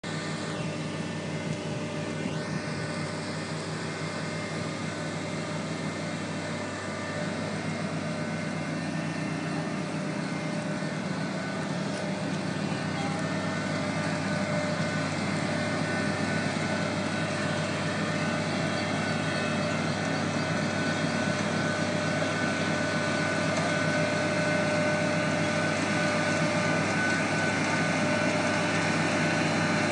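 Grimme self-propelled potato harvester running: a steady diesel engine and machinery drone with several held tones, growing gradually louder from about seven seconds in.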